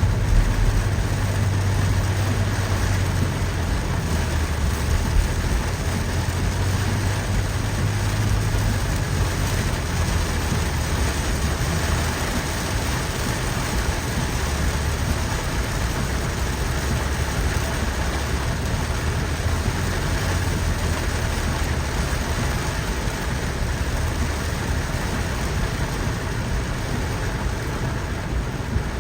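Steady rain falling, an even hiss with no break, over a low continuous rumble.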